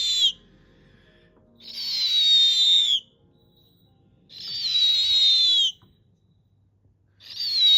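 Young snowy owl giving rough, hissing whistled calls, each about a second and a half long and dropping in pitch at the end, repeated about every two and a half seconds: the food-begging call of a young owl still losing its down.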